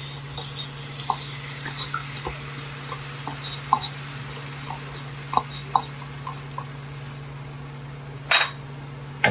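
Honey-garlic sauce simmering in a frying pan with butter and garlic: irregular small bubbling pops and blips over a steady low hum, with one brief louder noise near the end.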